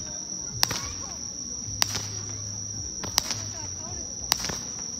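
Toy mini fireworks going off with a series of sharp cracks about one to two seconds apart, over a steady high-pitched tone.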